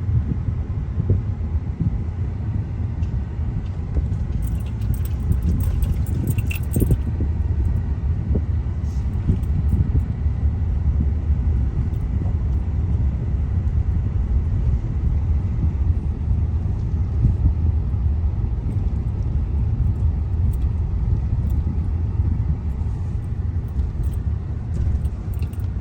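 Road noise heard from inside a moving car's cabin: a steady low rumble of tyres and engine, with a cluster of light clicks and rattles about five to seven seconds in and a few more near the end.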